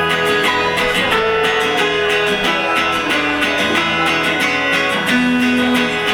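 Live band playing an instrumental guitar passage at the opening of a song, with strummed chords and held melodic notes that move in pitch.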